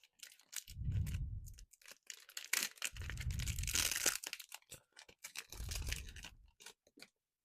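Foil booster pack of Pokémon cards being torn open and crinkled in the hands, in several bursts with dull handling bumps; the loudest tearing comes about three to four seconds in.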